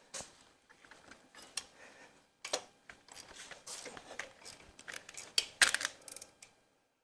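Hand tools working on an engine: irregular metal clicks and clinks of wrench or ratchet against bolts and brackets, with a quick, louder cluster of clicks near the end.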